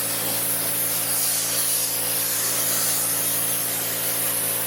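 Pressure washer running steadily, spraying water through a 40-degree nozzle tip onto a garage door: a constant hiss of spray over the machine's steady hum.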